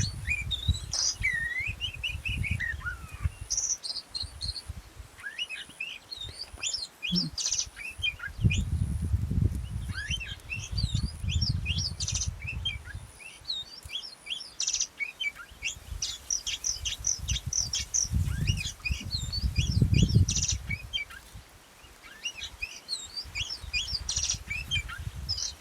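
An oriental magpie-robin (kacer) sings a rapid, varied run of chirps and warbled whistles, with low rumbles of wind on the microphone coming and going.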